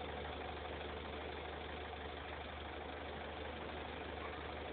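Citroën C2's 1.4 HDi four-cylinder diesel idling steadily through its exhaust, recorded on a phone, so the low idle burble hardly comes through.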